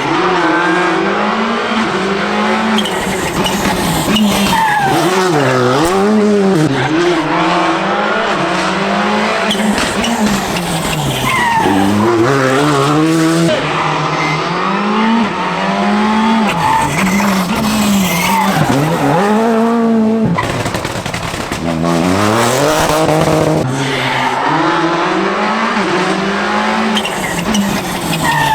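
Rally cars driven hard, engines revving high and dropping back through quick gear changes, the pitch climbing and falling over and over. The sound cuts abruptly several times from one pass to the next.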